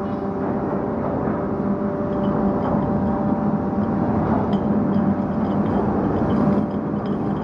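Ship's anchor windlass heaving in the anchor chain: a steady machinery hum with an even drone, with light irregular clinks of chain from about two seconds in.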